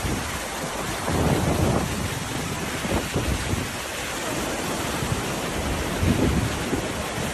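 Heavy rainstorm: a dense, steady hiss of pouring rain and running water, with low rumbling swells of wind on the microphone about a second in and near the end. It cuts off abruptly at the end.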